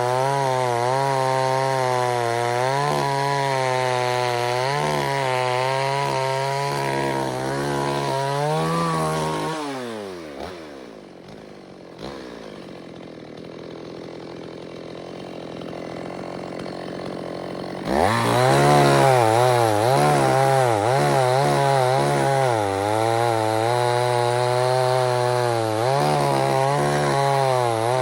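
Two-stroke chainsaw running at high throttle, its pitch wavering up and down as it works under load. About a third of the way in the engine winds down and runs low and quiet for several seconds, then it is suddenly throttled back up to full speed and keeps cutting.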